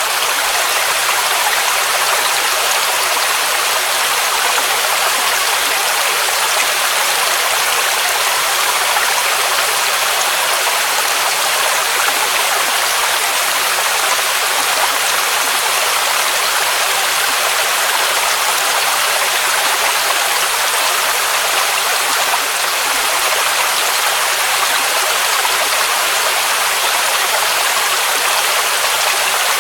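Waterfall rushing steadily: a constant hiss of cascading water, strong in the middle and high range with little deep rumble.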